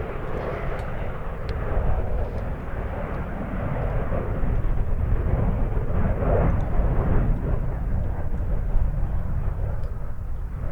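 Jet noise from a Eurofighter Typhoon's twin EJ200 turbofans in flight: a steady, heavy low rumble that grows louder about four seconds in.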